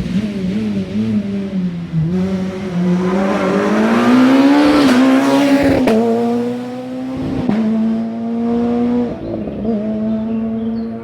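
Rally car engine at high revs on a stage, its pitch wavering and then climbing as the car comes closest about five seconds in. A sharp crack about halfway through and another a second and a half later, then the engine holds a steady high note.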